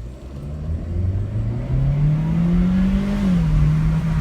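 2017 Chevy Sonic RS's 1.4-litre turbocharged four-cylinder engine accelerating hard under full throttle. The engine note climbs steadily, dips slightly about three seconds in, and then holds steady.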